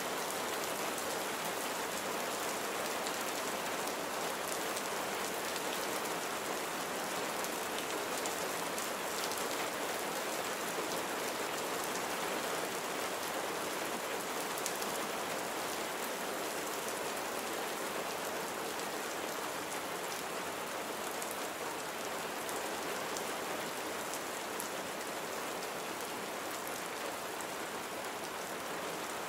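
Steady rain falling on surfaces: an even hiss with small drop ticks scattered through it.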